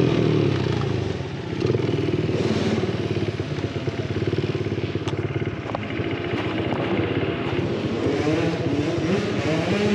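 Small single-cylinder pit bike engine running and being revved up and down, its pitch rising and falling.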